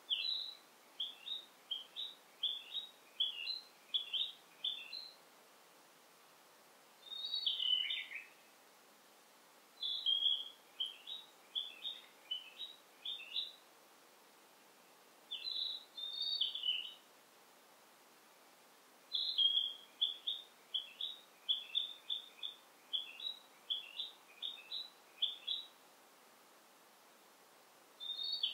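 Songbird singing in the forest: runs of quick, high chirping notes in phrases a few seconds long, separated by short pauses. A couple of the phrases slide downward. A faint steady background hiss runs underneath.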